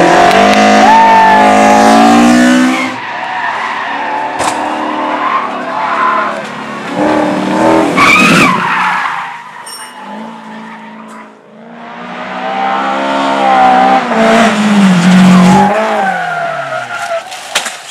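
Sprint race car engines at hard throttle, the revs rising and falling through gear changes, with tyres skidding. The engine sound fades away about two-thirds of the way through and then builds again to a second loud pass.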